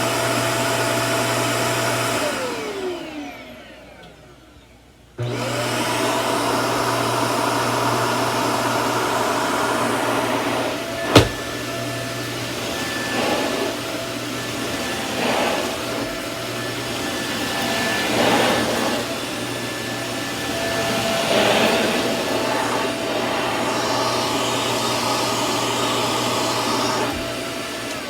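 Samsung CycloneForce upright vacuum motor running with a steady whine. It is shut off about two seconds in and winds down in a falling whine, then is switched back on about five seconds in and runs steadily, with a sharp click near eleven seconds and several brief surges of noise. Its power brush is not turning.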